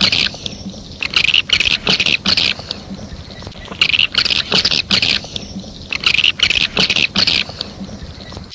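Swiftlet calls, of the kind played as a lure at swiftlet nesting houses: groups of rapid, high twittering chirps about a second long that recur every two to three seconds, with sharp clicks scattered between them.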